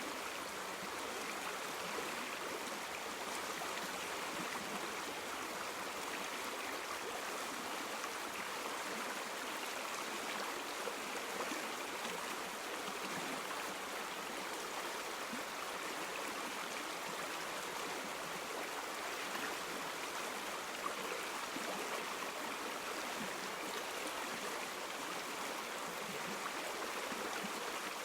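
A river or stream flowing steadily over rocks, an even rushing and babbling of water.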